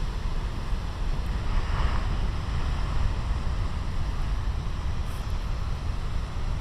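Heavy ocean surf breaking and rumbling steadily, with a wave crash swelling a little about two seconds in.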